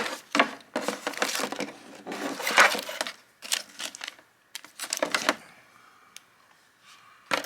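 Rustling, crinkling and light knocks of new transmission parts being handled: a filter and a cold, stiff rubber pan gasket and their plastic packaging. The noises come in irregular spurts, then mostly stop about five and a half seconds in.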